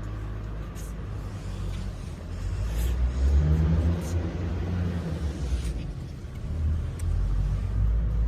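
Diesel engine of a portable rotary screw air compressor running with a low rumble, rising in level about two and a half seconds in and again near the end.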